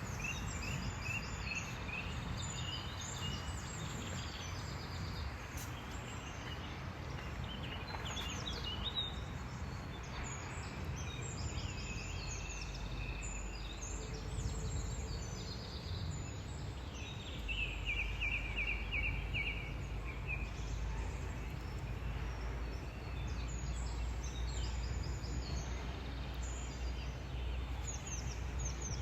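Small birds chirping and trilling over a steady low rumble, which grows a little louder about seventeen seconds in.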